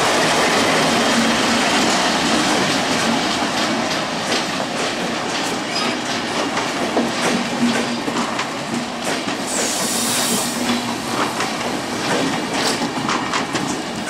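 A departing express train passes close by: the WDM-3A diesel locomotive's engine goes by in the first few seconds and fades. Then passenger coaches roll past, their wheels clicking irregularly over the rail joints. A brief high hiss comes about ten seconds in.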